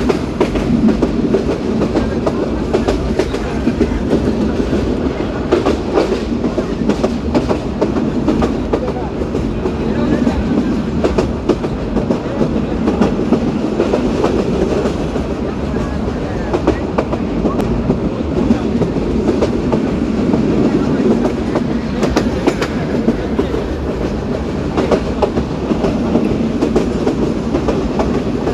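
Moving train running steadily: a continuous low rumble of wheels on the rails, with frequent clicks over the track joints.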